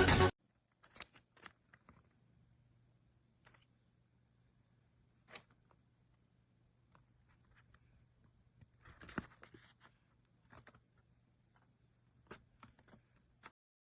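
Music cuts off suddenly, then faint scattered taps and rustles of paper being handled, with a small cluster about nine seconds in, over a low steady hum.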